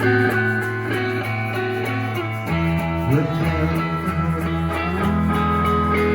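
Live rock music from a plucked, guitar-like instrument over a held bass. The bass drops to a lower note about two and a half seconds in, with a sliding note just after.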